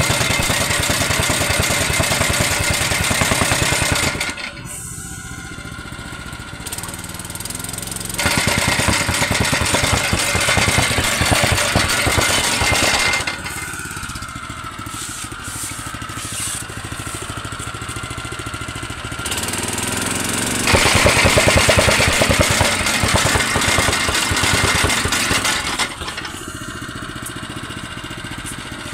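Tamping rammer (jumping-jack compactor) with its small petrol engine running, throttled up to full ramming speed three times with quieter idling between. The fast even pounding runs through the loud stretches.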